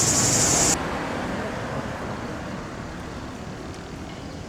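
A shrill, even chorus of cicadas cuts off abruptly under a second in. Quieter outdoor ambience follows: a low hum of distant traffic that slowly fades.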